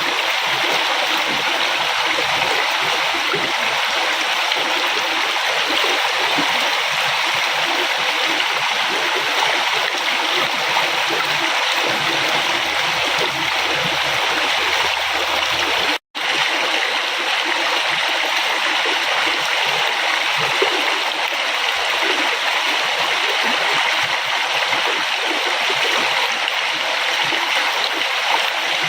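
River water flowing and splashing steadily, with a momentary cut to silence about sixteen seconds in.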